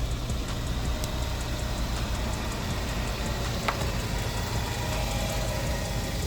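LS-swapped car's 4.8-litre V8 engine running with a steady low rumble, with one sharp click partway through.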